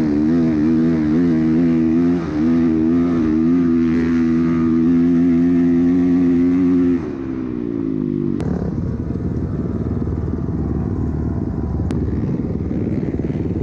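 Dirt bike engine running under throttle, its pitch rising and falling, then dropping off about seven seconds in as the throttle closes. A rough low rumble follows for the rest of the time.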